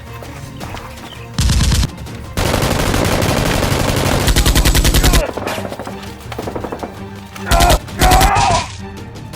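Bursts of rapid automatic gunfire over background music: a short burst about a second and a half in, a long burst of about three seconds, then two short bursts near the end.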